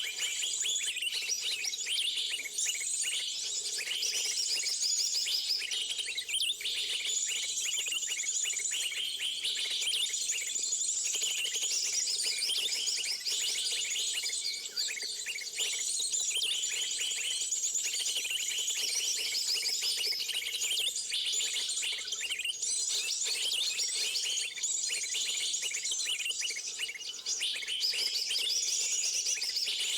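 Many small birds chirping and twittering at once, a dense unbroken chorus of short high calls, over a faint steady low hum.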